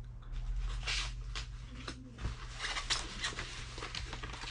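Plastic packaging and parts being handled, rustling with scattered light clicks and knocks.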